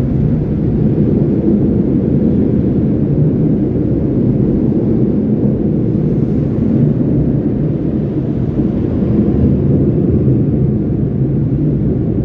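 Automatic car wash air-dryer blowers running, a loud steady roar heard from inside the car, its sound mostly deep and muffled.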